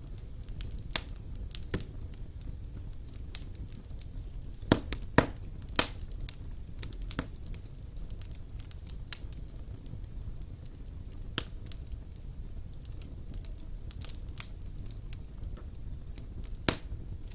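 Wood fire in a fireplace crackling, with irregular sharp pops over a steady low rush of the flames; the loudest pops come in a cluster about five seconds in and once near the end.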